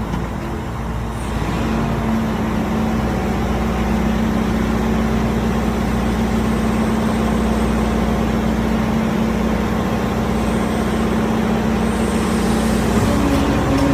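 Excavator's diesel engine running steadily, its pitch stepping up near the end as it revs higher.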